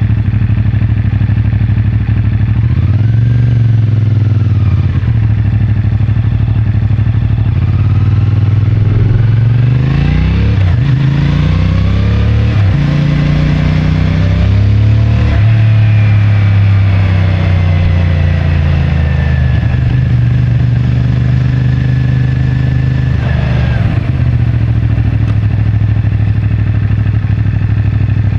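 CFMoto 450MT's parallel-twin engine through its stock exhaust, running at a steady low speed, with a short rise and fall in revs a few seconds in. About eight seconds in it pulls away, shifting up three times, then holds a steady pitch and drops back to low revs near the end.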